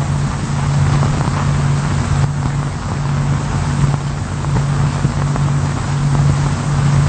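Steady low hum with an even hiss, the background noise of an old film soundtrack.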